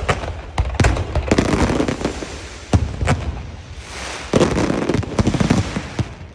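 Fireworks going off: a rapid run of sharp bangs with crackling between them. The bangs come in clusters, thickest early on and again around the middle.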